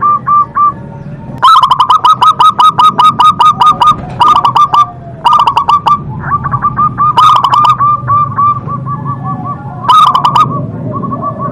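Zebra dove (perkutut) cooing: loud runs of rapid, staccato coo notes, several a second, repeated in bursts with short breaks between them.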